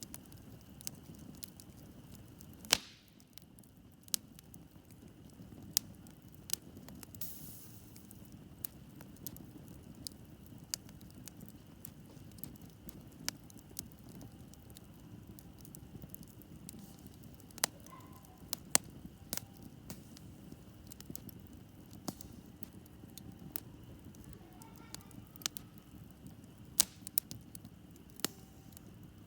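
Wood campfire crackling: irregular sharp pops and snaps over a low, steady hiss of burning, with one louder pop about three seconds in and a few more later on.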